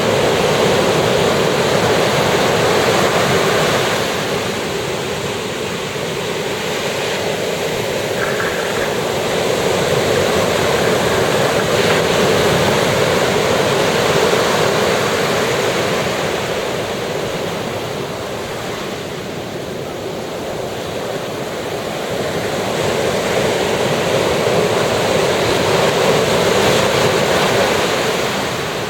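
Ocean surf washing onto a beach, a continuous rushing hiss that swells and eases slowly as the waves come in.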